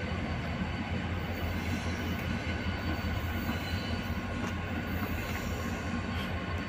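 Train at a railway station: a steady low drone with a faint high squeal from the wheels on the rails.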